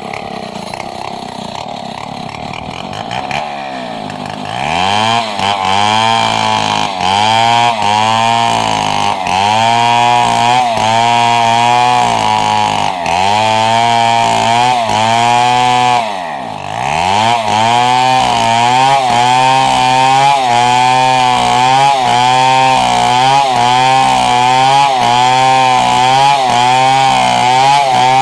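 Two-stroke chainsaw, an imitation Stihl, running at low speed and then opened up about four seconds in to rip a wooden beam lengthwise, its engine pitch dipping and recovering about once a second as the chain bites under load. It drops off briefly at about sixteen seconds, then goes back to full-throttle cutting.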